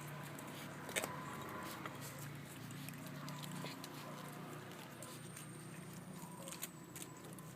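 Puppies eating: a steady patter of small chewing clicks, with one sharper click about a second in.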